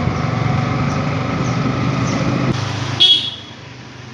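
Motorcycle engine running steadily on the move, with a short loud vehicle horn toot about three seconds in, after which the engine sound drops away.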